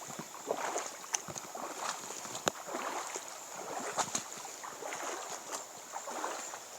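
Irregular splashing and sloshing of shallow floodwater, with a few sharp knocks.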